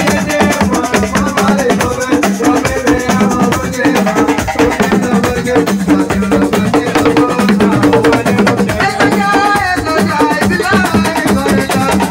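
Live assiko band music: dense, fast hand percussion with a steady beat and a melodic line over it.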